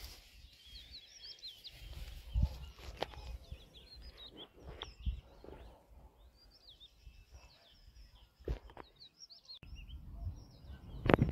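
Small birds twittering, many quick chirps repeating until near the end, over a low rumble. A few sharp knocks, the loudest near the end.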